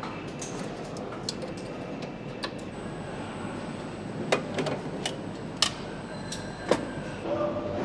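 Engine-assembly shop noise: a steady machinery hum with a faint high whine, and sharp metallic clicks and knocks of tools and parts being handled, the loudest ones in the second half.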